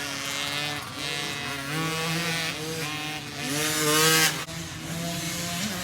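Small dirt bike engines revving on the track, their pitch rising and falling as riders work the throttle; one bike revs up loudly about four seconds in.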